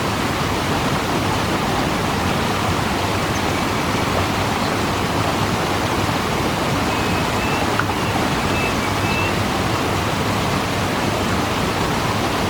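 Waterfall: a steady, even rush of falling water, with a few faint short high whistles about halfway through.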